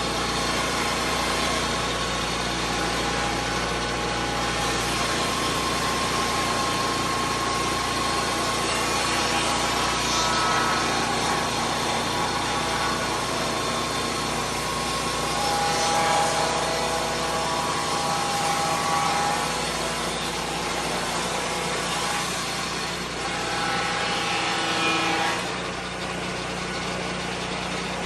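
Lucas Mill 10-30 portable swing-blade sawmill's petrol engine running, with its pitch and loudness shifting a little, swelling about sixteen seconds in and again near twenty-five seconds before easing off.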